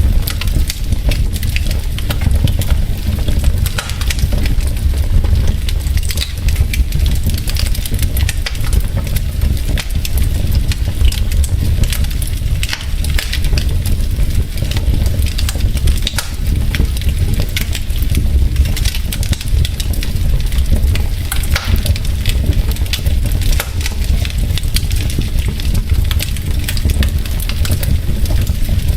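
Wood logs burning in a fireplace, crackling and popping constantly with many small irregular snaps over a steady low rumble.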